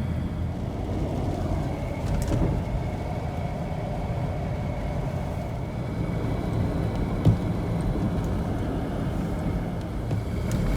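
Toyota 4Runner driving along a highway: steady engine and tyre road noise, with a single short knock about seven seconds in.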